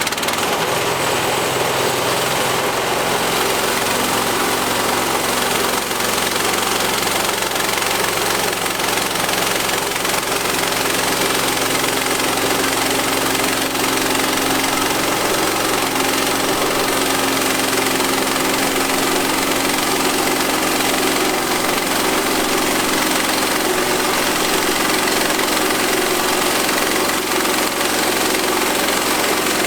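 Frontier portable band sawmill running steadily, its engine under load as the band blade saws through a 26-inch black walnut log. The sound steps up right at the start and then holds steady.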